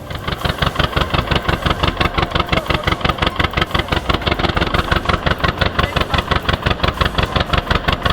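Tractor engine running with a fast, even pulsing beat.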